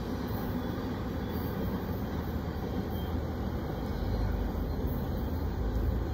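Low, steady rumble of an intermodal freight train going away down the track, with an even deeper rumble swelling about four seconds in.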